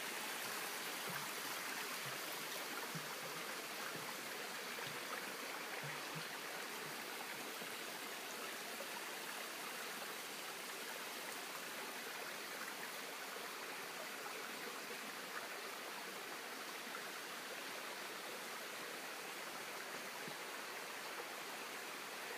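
A brook babbling over rocks in a steady rush of water, with a few small gurgles in the first several seconds.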